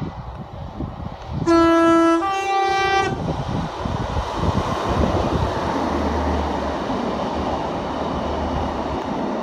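Diesel multiple unit sounding a two-note horn about a second and a half in, a lower note followed by a slightly higher one, together lasting about a second and a half. It then passes underneath with a steady rumble of engine and wheels on the rails.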